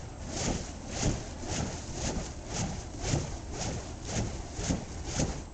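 Fire poi being spun, whooshing past in a steady rhythm of about two swishes a second.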